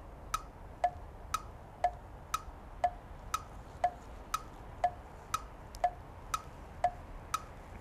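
Countdown-timer sound effect: a clock ticking tick-tock, about two ticks a second, alternating between a higher and a lower click.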